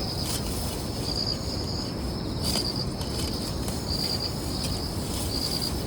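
Insects, likely crickets, trilling at a high, steady pitch, growing louder for a moment about every second and a half, over a steady low rushing noise.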